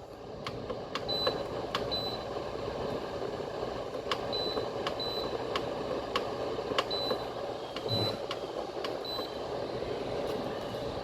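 A 2017 Keystone air cooler/humidifier's control panel beeping as its timer is set: about seven short high beeps, roughly in pairs, mixed with sharp clicks. Under them runs the steady hum of the cooler's fan.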